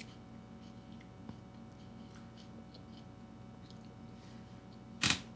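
A person chewing a mouthful of crunchy breakfast cereal, with soft scattered crunches. A single short, sharp mouth sound comes near the end.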